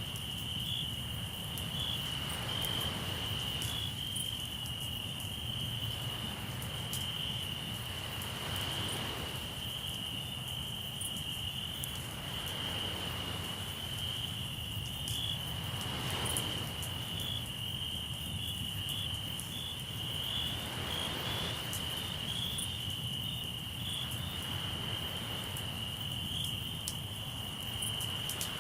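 Crickets trilling steadily at one high pitch, over faint crackles of a campfire. A soft wash of sea waves swells and fades every few seconds.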